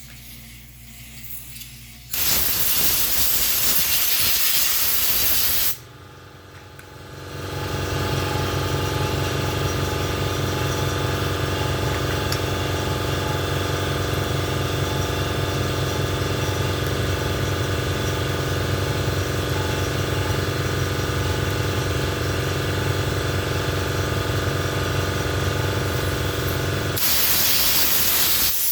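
A blast of compressed air from an air blow gun hissing for a few seconds, then an air compressor starting up about seven seconds in and running steadily with a droning hum, and another air blast near the end.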